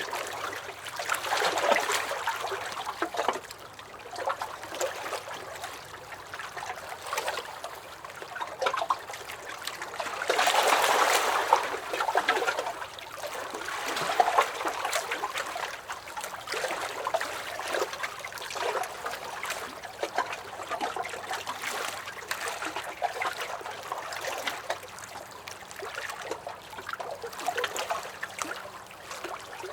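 Small lake waves lapping and sloshing against a dock, in uneven swells, the biggest about ten seconds in.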